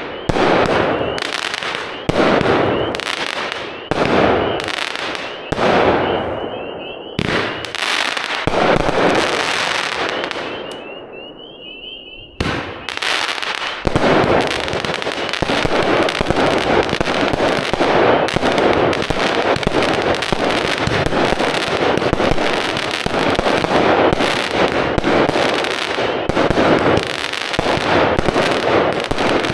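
A 16-shot 200-gram firework cake firing: sharp shots about one a second with crackle, dying away around ten seconds in. After a brief break, three of the same cakes fire at once, a dense, continuous barrage of bangs and crackle.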